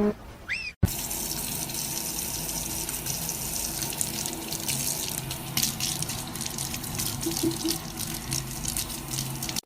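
Steady rush of running water, like a tap running, starting suddenly about a second in.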